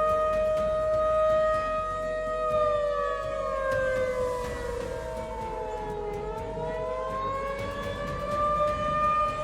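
Civil-defence warning siren wailing in several tones. The pitch holds, slowly falls for a few seconds, then rises again near the end.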